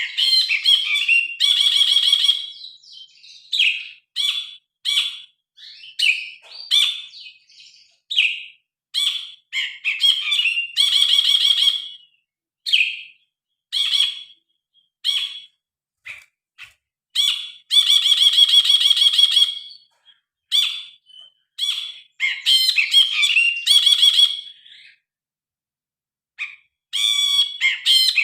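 Brinji kelabu (cinereous bulbul) singing loudly: a quick run of varied chirps and whistled notes, broken by several longer, buzzy, ringing phrases, with a short pause near the end.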